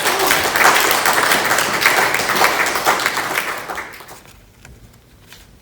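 A congregation applauding after a hymn solo. The clapping is steady for about four seconds, then dies away.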